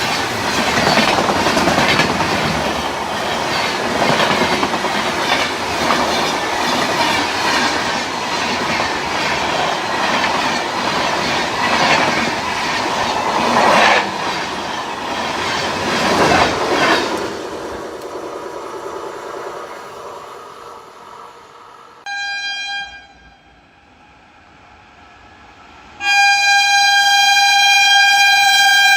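Train passing at speed, its wheels clattering over the rail joints, the noise dying away. Then a locomotive horn sounds: one short blast, then a longer blast about three seconds later.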